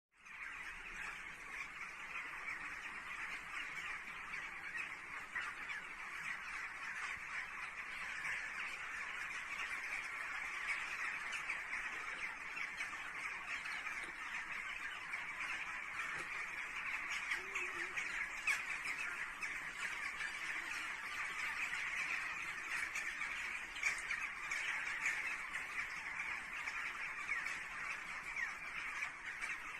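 A dense, steady chorus of many birds calling at once, a large flock chattering without pause.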